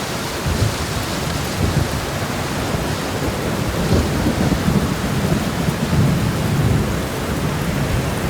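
Steady rain shower: a dense, even hiss, with a low, uneven rumble underneath.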